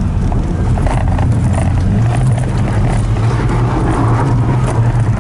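Daihatsu Hijet kei truck's engine running steadily while driving, a constant low drone.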